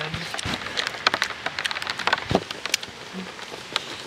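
Steady rain with many irregular sharp ticks and crackles, mixed with crunchy chewing of fried corn dogs.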